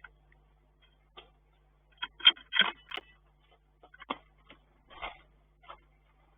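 Middle spotted woodpecker pecking at a feeder: irregular sharp taps and knocks, about ten of them, loudest in a quick cluster two to three seconds in.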